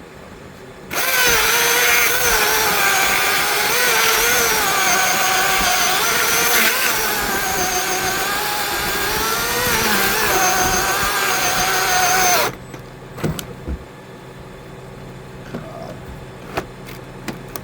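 Small chainsaw with a 16-inch bar running at high revs, its pitch wavering as it cuts through wood. It starts about a second in and drops away suddenly about twelve seconds in.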